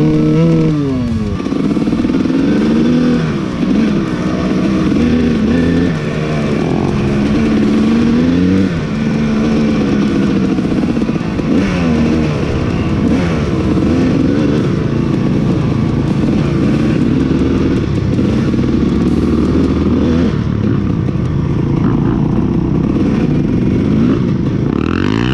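Two-stroke dirt bike engine running and revving, its pitch climbing and falling again and again as the throttle is worked, with the carburettor freshly leaned out from a rich setting.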